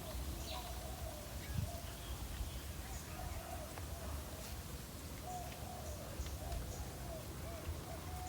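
Short, wavering animal calls repeated over and over, with a steady low rumble beneath.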